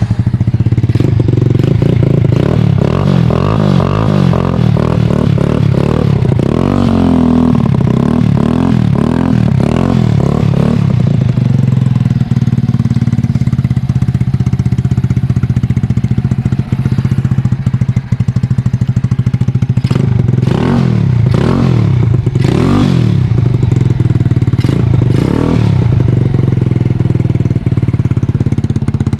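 Ice Bear 125cc motorcycle engine running at idle, revved with the throttle: a run of rising and falling revs in the first ten seconds or so, then steady idling, then a few more quick blips about two-thirds of the way through.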